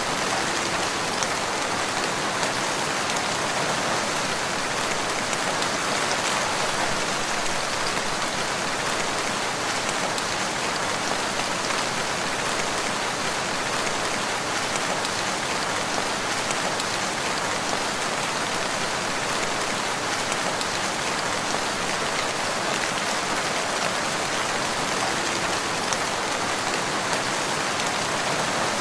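Steady rain falling, an even hiss of many drops that stays constant throughout.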